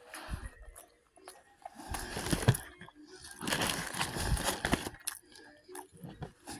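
Fried chicken being crunched and chewed close to the microphone, in three crackly bursts with short pauses between them.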